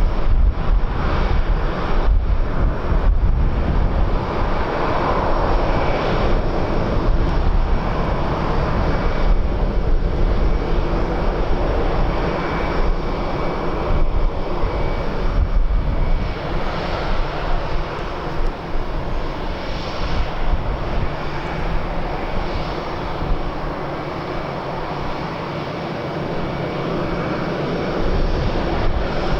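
Airliner engines running, a steady rushing noise with a faint high whine, mixed with wind buffeting the microphone.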